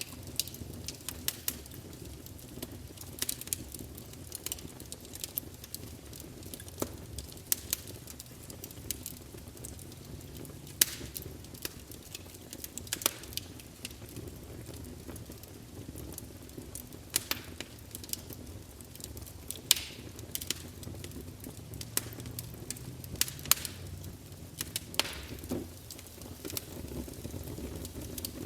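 Campfire burning with a steady low rumble and irregular sharp crackles and pops of burning wood.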